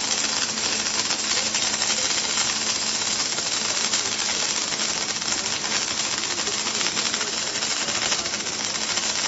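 Welding arc of a circumferential seam welding machine running a tank seam, giving a steady crackling hiss of rapid fine ticks with no break.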